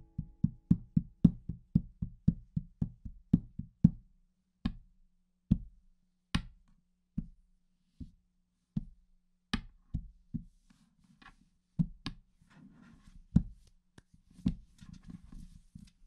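Sharp knocks in a steady beat, about five a second for the first four seconds, then slowing to roughly one a second, over a faint low hum.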